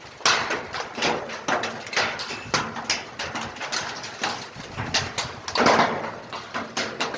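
Large hailstones striking a roof: irregular heavy knocks, a few a second, sounding like a drum.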